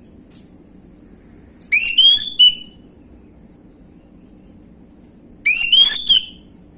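Orange-headed thrush singing: two short phrases of loud, swooping whistled notes, the second about three seconds after the first.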